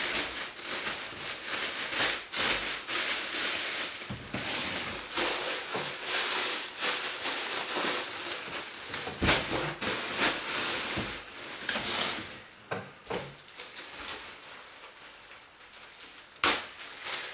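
Clothing being handled and packed: dense rustling and crinkling of fabric, thinning out after about twelve seconds, with one sharp click near the end.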